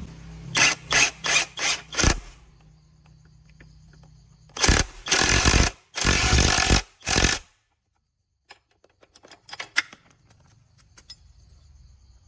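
A power tool run in short bursts: five quick bursts, then four longer ones, followed by light scattered clicks and taps.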